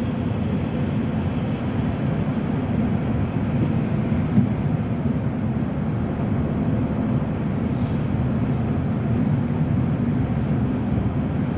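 Steady road and engine noise of a car being driven, heard from inside the cabin, with one brief click about four seconds in.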